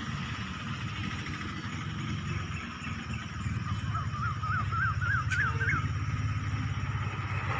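Steady low rumble of a car on the move, engine and road noise, with a short wavering high-pitched warble from about four to six seconds in.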